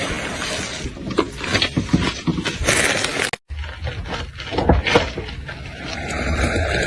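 Objects crunching and cracking under a car tyre: a run of sharp snaps and crackles, broken by a split-second cut to silence about three and a half seconds in. A car's low running rumble steadies near the end.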